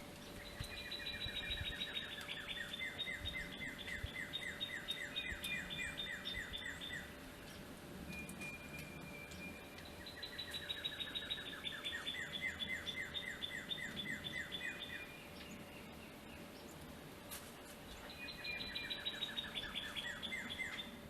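A songbird singing a long, fast trill three times, each song lasting several seconds and made of rapid notes that slide down in pitch. A faint steady hum runs underneath.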